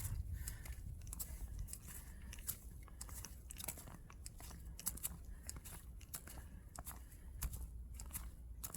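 Footsteps crunching in snow: a run of irregular crisp crunches from walking.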